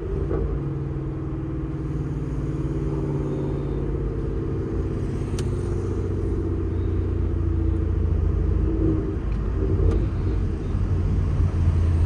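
Straight-piped Ford Mustang GT's 5.0 V8 with long-tube headers running steadily under way. The exhaust grows somewhat louder in the last few seconds, and a couple of faint ticks sound in between.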